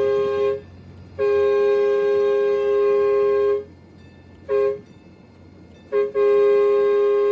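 A miniature diesel locomotive's horn, a steady two-note chord, sounding in blasts: the end of one long blast, another long blast, a short toot, then a final long blast, the long-long-short-long warning pattern. It is blown as a warning while the train approaches a tunnel.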